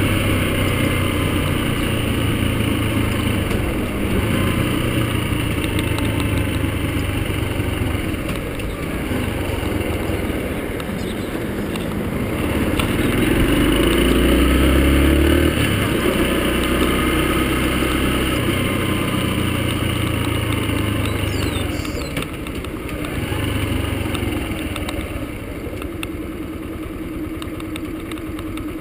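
Yamaha XTZ-125's single-cylinder four-stroke engine running as the motorcycle is ridden through town. It gets louder as the bike speeds up around the middle and settles lower toward the end.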